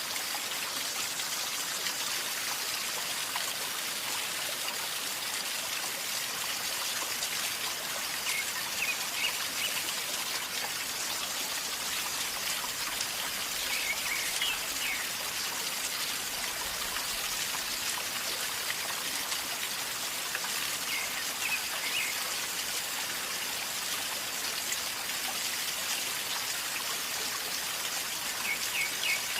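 River water flowing and gurgling steadily over stones. A few short, high bird chirps come through it four times.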